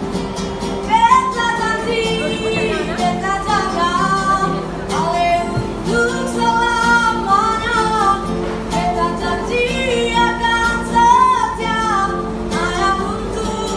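A street busker singing an eastern-Indonesian song over a sustained instrumental accompaniment, the melody gliding through long sung phrases.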